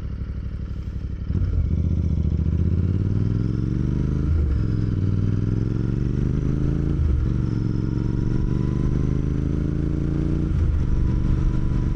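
Royal Enfield motorcycle engine pulling away and accelerating, its pitch rising in each gear, with three brief dips as the rider shifts up.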